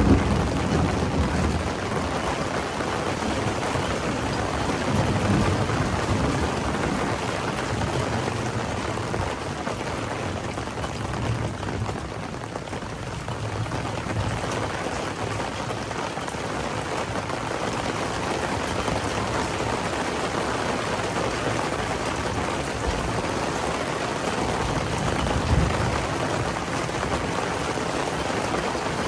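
Steady rain falling in a thunderstorm, with the tail of a thunder rumble dying away at the start.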